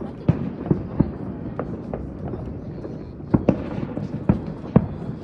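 Fireworks going off: a string of sharp bangs and pops at irregular intervals, about a dozen in five seconds, over a steady low rumble.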